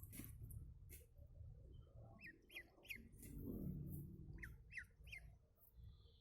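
Ducklings peeping faintly: two quick runs of three short high peeps, a couple of seconds apart.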